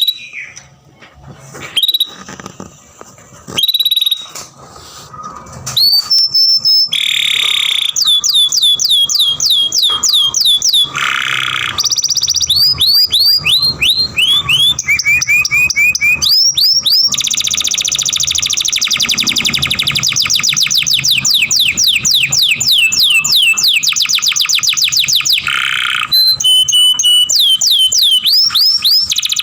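Young domestic canary singing: a few short separate calls at first, then from about six seconds in a long unbroken song of rapid repeated rising notes and fast trills, changing phrase every few seconds.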